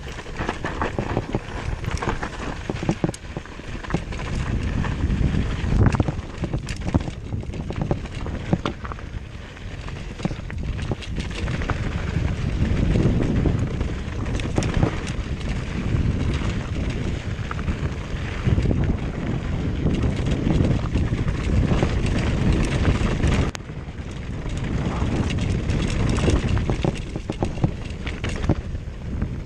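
Wind rushing over the microphone while moving fast, a dull, low-heavy buffeting with scattered clicks, knocks and scrapes throughout. It drops out briefly about three-quarters of the way through.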